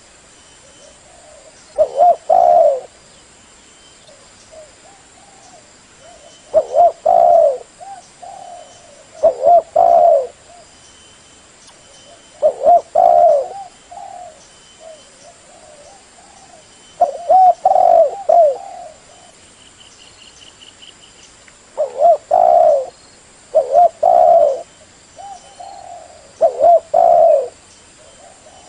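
Spotted dove (tekukur) cooing: short phrases of a few low coos repeated about eight times, every two to five seconds, the kind of call used to lure the birds.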